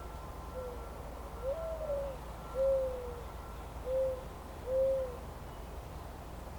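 An owl hooting: a run of five low hoots over about five seconds, the second one the longest, each arching or falling slightly in pitch, over a steady low background rumble.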